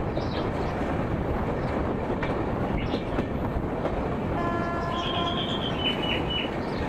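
Gatimaan Express coach running at speed, a steady noise of wheels on the track. A horn sounds for about a second, a little past halfway, followed by a few short higher tones.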